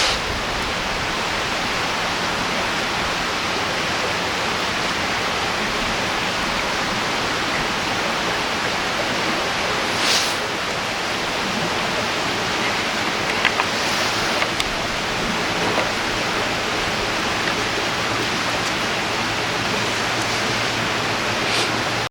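River water rushing steadily, an even hiss, with a few sharp clicks a little past the middle.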